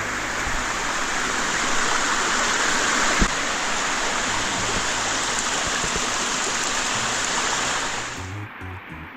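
Waterfall's rushing water, a steady loud hiss of falling and splashing water, with one sharp knock about three seconds in; the water sound cuts off abruptly about eight seconds in.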